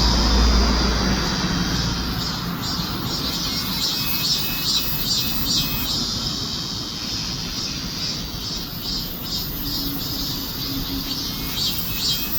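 Cicadas singing in a pulsing, high-pitched chorus that repeats a few times a second. A low rumble sits under it for the first couple of seconds.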